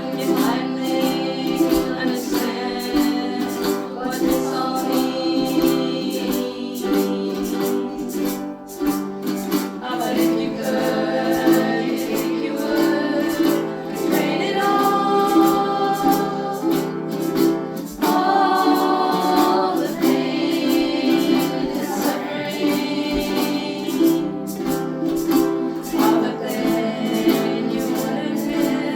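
A group of voices singing together in unison over strummed ukuleles, with a steady strumming rhythm.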